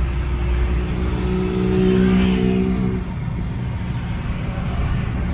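Car engine and road rumble while driving in city traffic. An engine note holds for about the first three seconds, then drops away, leaving the steady rumble.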